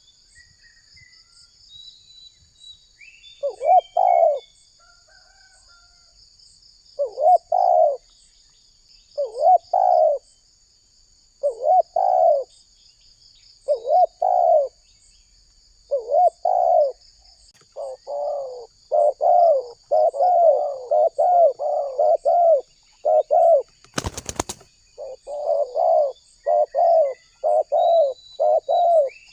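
Spotted dove cooing repeatedly: spaced coo phrases every two seconds or so, quickening into a rapid run of coos for the last third. Steady high-pitched insect chirring runs underneath, and a brief crackle comes about two-thirds of the way through.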